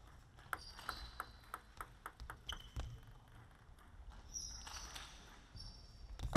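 Table tennis ball clicking in a quick, even series of light hits against table and rackets, about four to five a second, fading out after about three seconds, with faint high squeaks.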